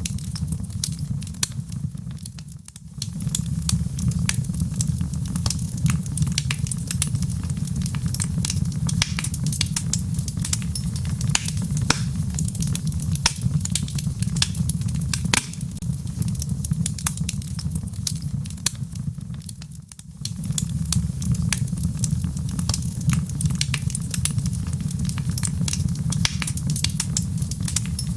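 Logs burning in a fireplace, with a steady low rumble of flame and a dense run of small crackles and pops. The fire sound drops away briefly twice, about three seconds in and again near twenty seconds.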